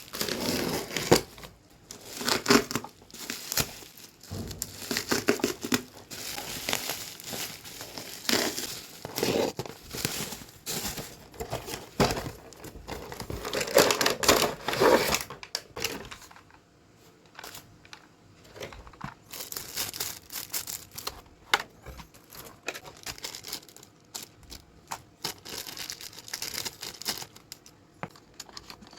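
Plastic packaging and wrapping crinkling and tearing as a toy RC pickup truck is unboxed by hand, in irregular handling noises that are loudest in the first half and sparser after about sixteen seconds.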